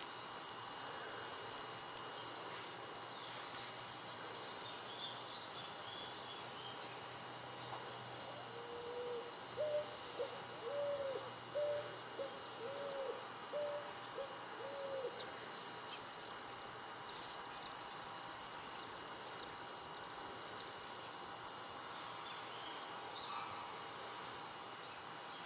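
Natural ambience of small birds chirping and twittering, with a run of about seven short, low hooting calls in the middle.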